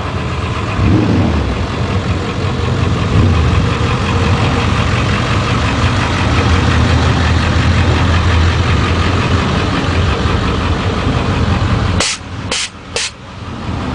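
A vehicle engine running steadily with a deep rumble. About twelve seconds in the sound drops away suddenly, broken by a few sharp clicks.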